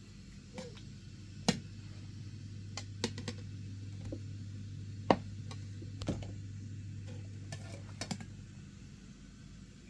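Scattered sharp clinks and knocks, a second or two apart, over a steady low hum that stops near the end.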